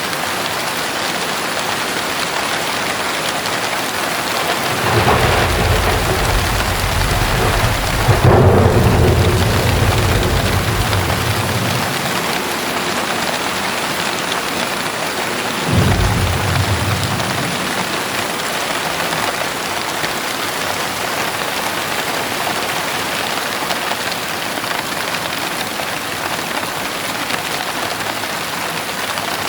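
Heavy rain falling steadily, with two claps of thunder: a long rolling one that builds, peaks with a sharp crack and rumbles away over several seconds, then a shorter rumble about halfway through.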